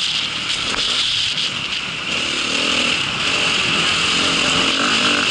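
A motor vehicle running, a steady noisy drone whose engine pitch shifts slightly.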